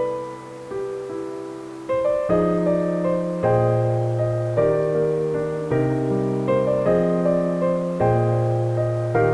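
Background piano music: slow chords struck about once a second, each note ringing on and fading.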